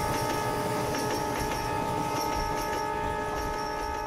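Indian Railways passenger train passing at speed, its horn held in one long steady blast over the rumble and clatter of the wheels on the rails.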